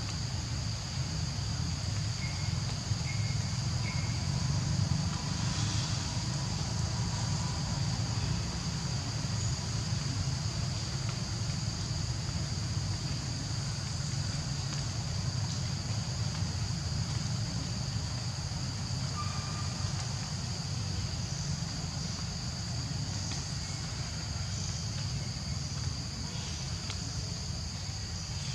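Steady outdoor ambience: a constant high insect drone over a low rumble, with a few faint short chirps here and there.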